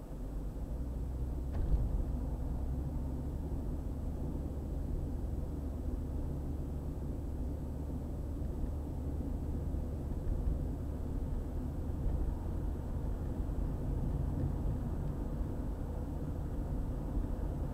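Car driving at highway speed: a steady low rumble of tyres and engine, with one short knock about two seconds in.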